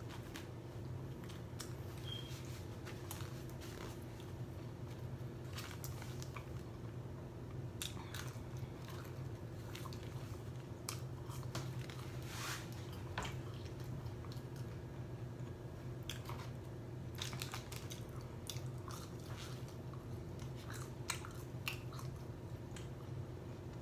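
A person chewing and biting mouthfuls of a burger, wet mouth clicks and smacks coming irregularly throughout, over a steady low hum.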